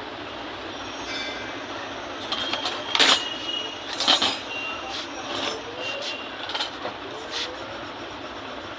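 Sharp knocks and lighter taps of hand tools and small parts being handled while repairing harmonium keys, two loudest knocks about three and four seconds in, some with a brief metallic ring, over a steady hiss.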